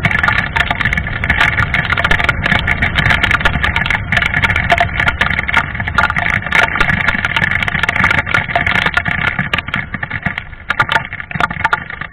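Motorcycle, a Yamaha FZ25 single-cylinder, running steadily while riding, heard with heavy wind rush buffeting the helmet microphone.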